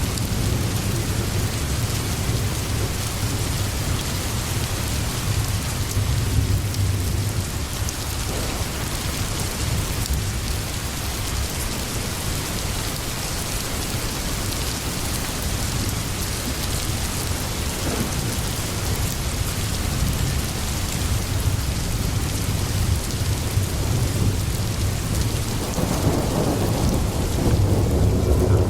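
Steady rain falling, with a low rumble of thunder underneath and a louder thunder roll building near the end.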